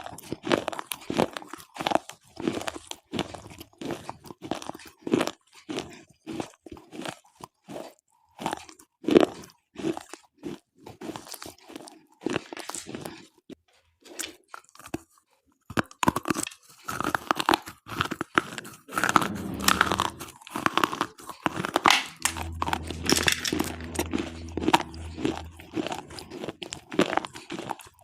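Slate pencils being bitten and chewed: a run of sharp, separate crunches, a brief lull about halfway, then denser, continuous grinding crunches as the chalky pieces are chewed.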